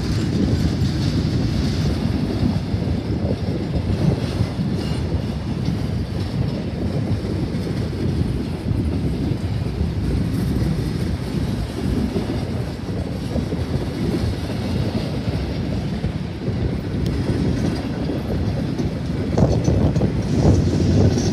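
CSX coal train's hopper cars rolling past: a steady heavy rumble of steel wheels on the rails with clattering over the rail joints, growing a little louder near the end.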